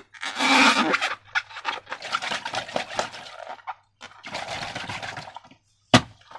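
Thick slime squelching wetly as it is squeezed and worked, in two long stretches, then a single sharp click near the end.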